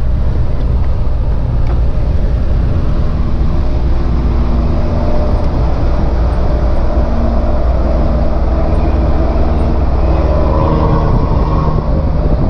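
Diesel truck engines and road noise at highway speed: a steady low rumble whose engine note shifts in pitch in the second half.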